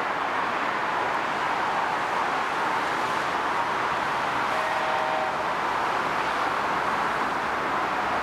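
Steady, even rushing noise of an approaching freight train hauled by a VL10 electric locomotive. A brief faint tone about five seconds in.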